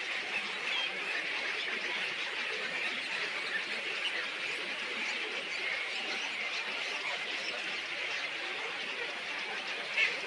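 A dense chorus of many small birds chirping and chattering together, with one louder call near the end.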